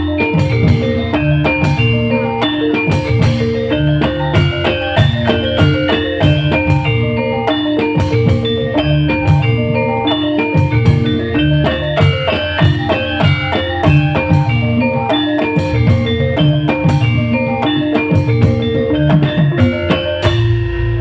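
Live band music: a keyboard playing a busy melody over drums and bass at a steady beat, with no singing.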